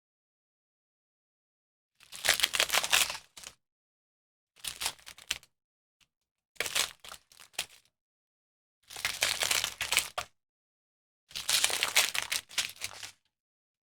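Small plastic bags of diamond-painting drills being handled, in five separate bursts of a second or so each.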